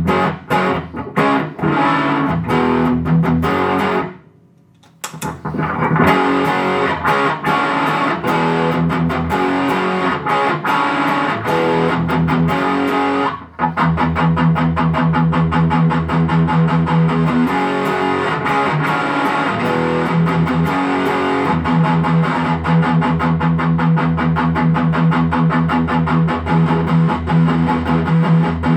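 Distorted electric guitar played through a ProCo RAT2 distortion pedal and a Boss GE-7 graphic equalizer, boosting an overdriven amp. Riffing stops briefly about four seconds in, then resumes, and from about halfway through turns into fast, steady picked chords.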